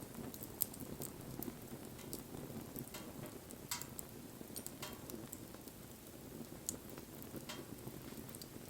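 Wood fire burning: a steady low rustle of flames with scattered sharp crackles and pops, and a brief hiss a little under halfway through.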